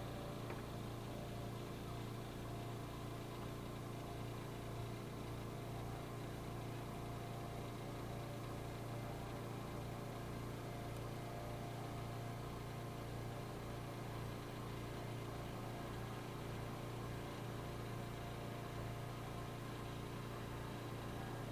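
Steady machine hum with many even tones and a slow regular throb underneath, about one and a half pulses a second, unchanging throughout.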